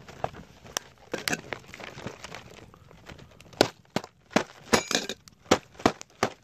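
A run of sharp, irregular snaps and clicks, coming faster and louder over the second half.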